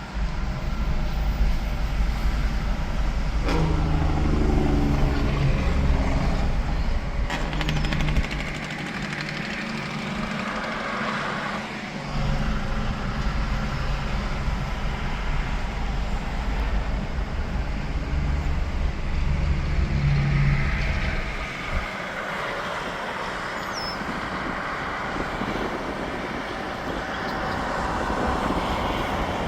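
Interstate highway traffic: tractor-trailers and cars passing at speed, diesel engine drone and tyre noise that swell as each truck goes by and ease off between them. A sharp click comes twice in the first few seconds.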